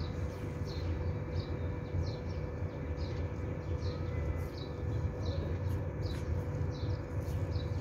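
A small bird repeating a short, falling chirp about twice a second, over a steady low rumble.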